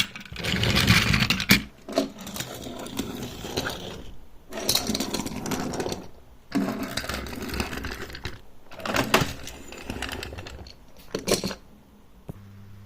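Small battery-powered toy train motor whirring in uneven stretches, with clicks and clatter from the toy and its track.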